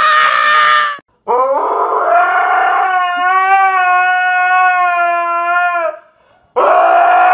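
Dog howling with its head raised: one long howl that rises at the start, then holds a steady pitch for about four and a half seconds, and a second howl begins near the end. A short high-pitched squeal fills the first second.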